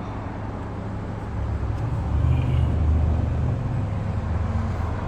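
Low rumble of road traffic, swelling as a vehicle goes by about two seconds in.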